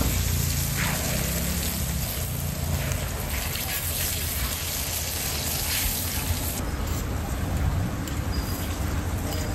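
Egg-filled pancakes (jidan guanbing) shallow-frying in a wide pan of oil: a steady sizzle and bubbling. A low steady rumble runs underneath.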